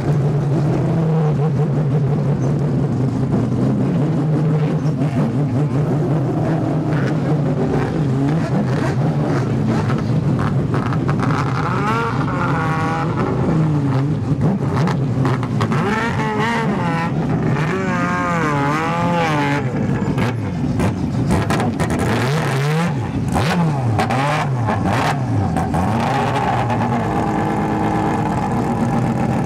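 Mazda rotary-engined race cars idling, then blipped on the throttle over and over, the pitch swinging up and down repeatedly through the middle before settling back to a steady idle near the end.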